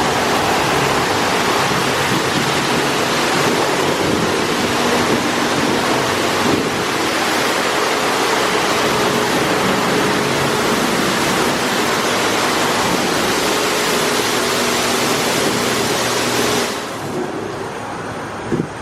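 Mark VII Softwash XT car wash machine spraying water, a loud steady rush with a faint machine hum under it; the spray cuts off about seventeen seconds in.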